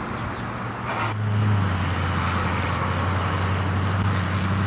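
Light outdoor traffic ambience, then from about a second in a steady low engine drone with road noise, as heard from a moving vehicle.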